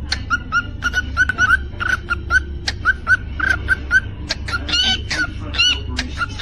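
Cockatiel chirping: a rapid run of short whistled chirps, several a second, with sharp clicks among them and a low steady hum underneath.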